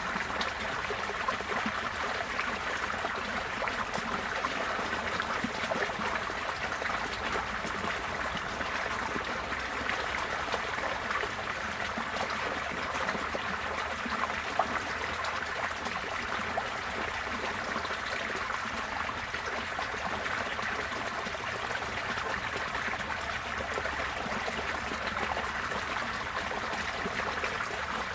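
Receding floodwater running and trickling: a steady rush of flowing water with fine splashing and gurgling.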